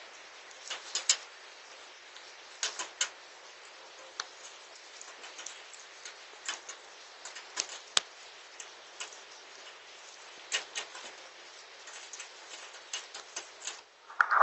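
Rain falling with hail: a steady hiss of rain, broken by irregular sharp ticks of hailstones striking a hard surface, a few to several a second.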